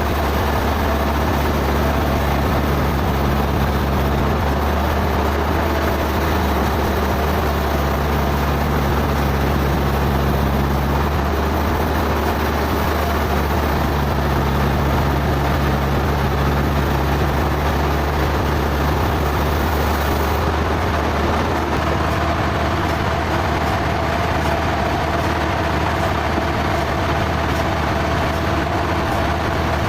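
Sawmill machinery running steadily with a constant low engine hum.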